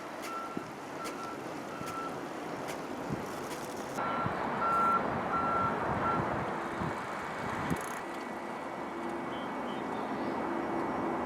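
Electronic warning beeper sounding about twice a second over steady wind and road noise. It stops in the middle and again after about six and a half seconds.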